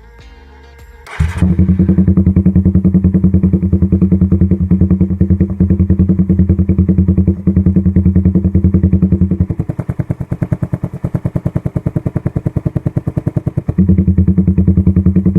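Suzuki Raider 150's four-stroke single-cylinder engine starting about a second in and running loud through a newly fitted Daengsai4 open pipe, in a rapid, even exhaust pulse, with a quieter stretch past the middle before it rises again near the end. It is run to check the new pipe's joints for exhaust leaks, and none is found.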